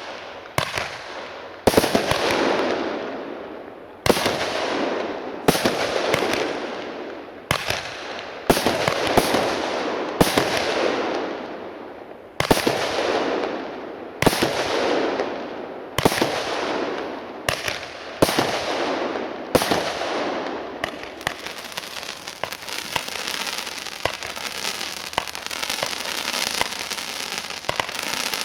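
Weco Lightning consumer firework battery firing: a string of sharp bangs about every one to two seconds, each fading out in a hissing tail. From about 21 seconds in this gives way to dense, continuous crackling.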